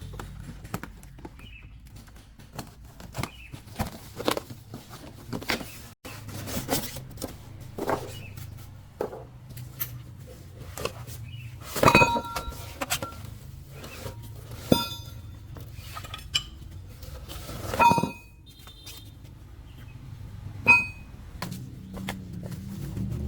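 Steel parts and hand tools clinking and knocking against each other, with a few louder ringing metal strikes, the loudest about halfway through and two more near the end.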